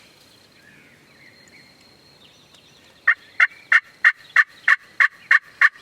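Wild turkey yelping: a run of nine sharp, evenly spaced yelps, about three a second, starting about three seconds in and stopping just before the end.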